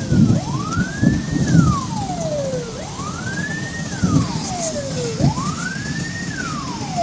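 Emergency vehicle siren wailing: each cycle rises quickly in pitch and then falls more slowly, repeating about every two and a half seconds. A low irregular rumbling runs underneath.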